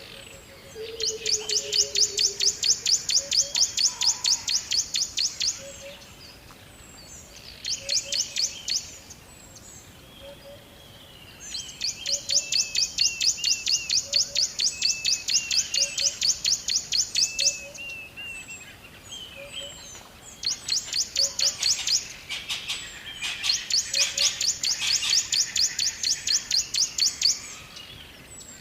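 Birds singing: one bird gives a rapid, even series of high chirps in runs lasting several seconds, broken by quieter spells, while softer short slurred notes and a low note repeating about once a second go on beneath.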